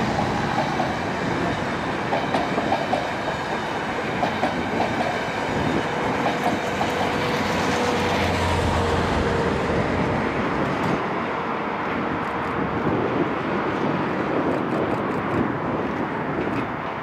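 A passenger train of coaches rolling past close by on welded track, its wheels and bogies giving a steady, loud rumble. Partway through a thin steady whine rides over the rumble, and near the end comes a run of sharp wheel clicks.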